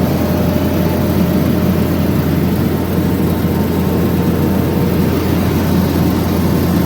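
Horizontal directional drill rig's diesel engine running steadily under load while pulling drill pipe back through the bore, a constant low drone.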